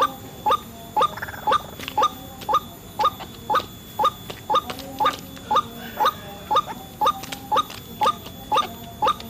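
White-breasted waterhen calls, a short pitched note repeated steadily about twice a second, the monotonous ruak-ruak call used to lure the bird.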